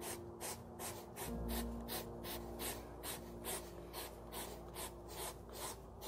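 Hedgehog sniffing and snuffling quickly with its nose in the grass as it forages, about three short sniffs a second, over soft background music with long held notes.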